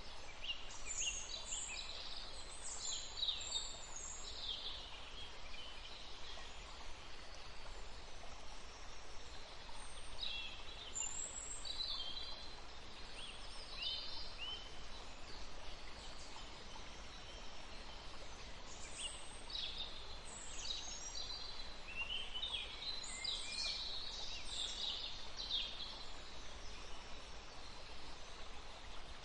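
Songbirds singing in bursts of quick high chirps and trills, over the steady rush of a forest stream.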